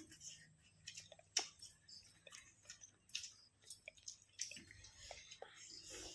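Quiet eating sounds: chewing and scattered light clicks and squishes of food being eaten by hand, over a faint steady low hum.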